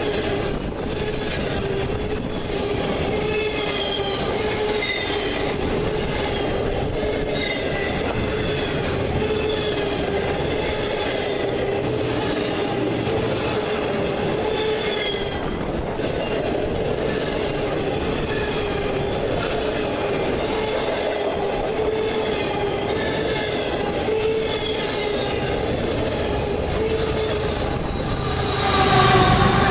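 Railroad cars rolling past steadily, with wheels squealing in wavering high tones over the rumble of the train. Near the end the sound swells louder.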